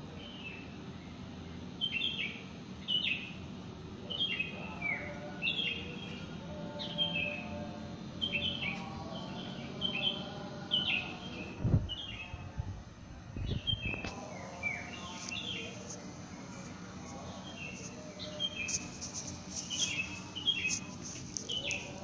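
Small birds chirping over and over, short downward-sliding chirps about once a second. Two brief low thumps come about halfway through.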